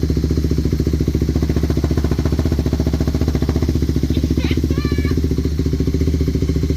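Kawasaki KFX450R ATV's single-cylinder four-stroke engine idling steadily on its first start-up after a rebuild. A few short high chirps come in about four to five seconds in.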